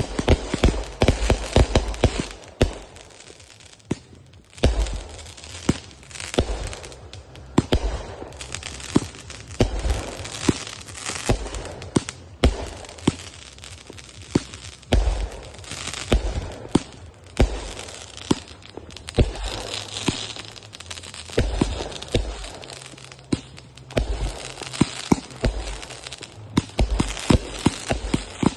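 Consumer fireworks going off in quick succession: sharp bangs and deep booms every second or so, with crackling between them.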